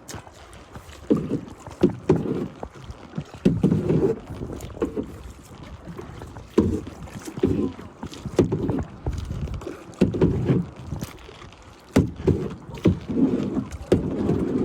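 Kayak paddle strokes in the water, a splashing swish about once a second, with a few sharp knocks between them.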